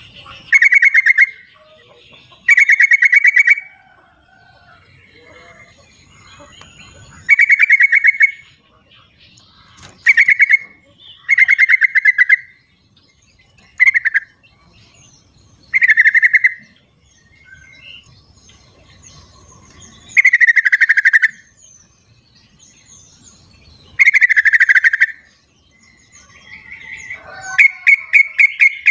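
Yellow-vented bulbul (trucukan) calling: about ten loud, short bubbling phrases of rapid notes, each lasting up to a second, coming at irregular gaps of one to four seconds. Fainter bird notes sound between them.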